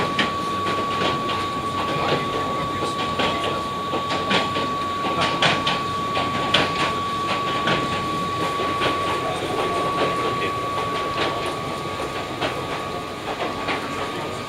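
Running noise heard inside an Oigawa Railway 3000 series electric railcar (ex-Keihan 3000 series): steady rumble with irregular clacks of the wheels over track joints, and a thin steady high tone. The noise eases a little near the end as the train slows into the station.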